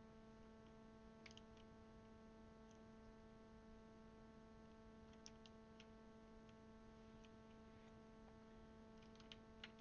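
Near silence: a steady faint hum, with a few faint light clicks of plastic keycaps being handled and pressed onto mechanical keyboard switches, a small cluster of them near the end.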